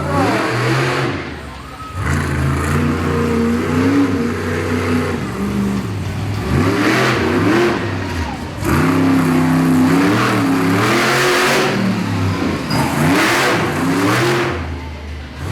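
Monster truck engine revving hard in repeated bursts, its pitch climbing and falling again and again as the throttle is opened and let off, with brief lulls about two seconds in and halfway through.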